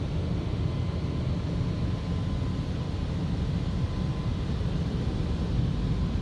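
Steady rumble of automatic tunnel car wash equipment heard from inside the car, with a faint steady whine above it.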